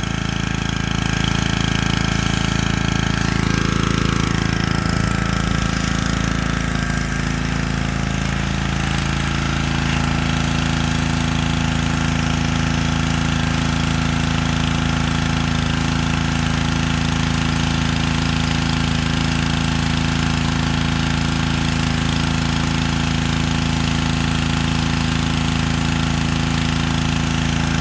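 Honda-powered Black Max pressure washer running steadily under load while it sprays water, the small petrol engine holding a constant, loud drone.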